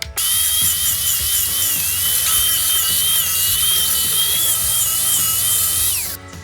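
Electric grinder running on steel: a loud grinding hiss with a high whine that wavers as the load changes. It starts suddenly, and about six seconds in the whine falls away as the motor is switched off.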